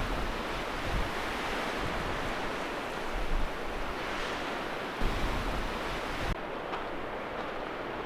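Strong wind rushing past and buffeting the microphone in gusts, with low rumbling thumps as the gusts hit. About six seconds in the hiss suddenly thins.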